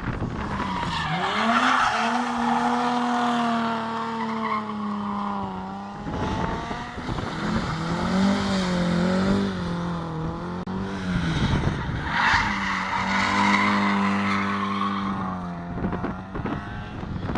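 Historic rally car's engine held at high revs with tyres squealing. The revs dip and climb again twice, then fall away near the end.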